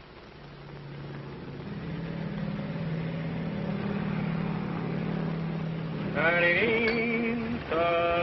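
Low, steady engine drone that grows louder, like a propeller aircraft approaching. About six seconds in, a higher pitched sound that rises and wavers comes in over it.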